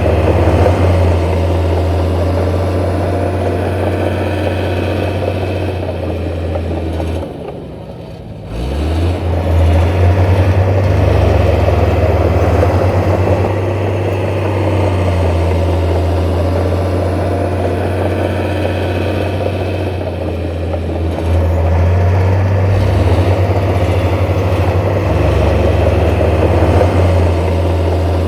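Heavy diesel earthmoving machinery running at a construction site: a steady, loud, low engine rumble. It dips away briefly about eight seconds in, then comes back.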